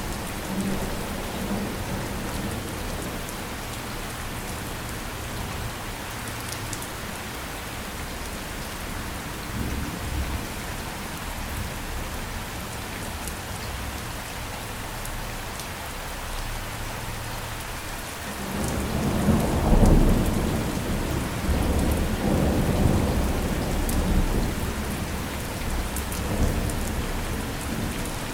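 Steady rain falling, with a roll of thunder breaking in about two-thirds of the way through: loudest just after it starts, then rumbling on in swells until near the end.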